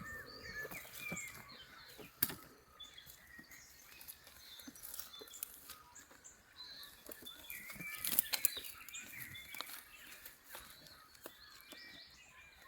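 Birds calling and chirping in a dawn chorus, with a few sharp close clicks and rustles, the loudest about two seconds in and a cluster around eight seconds in.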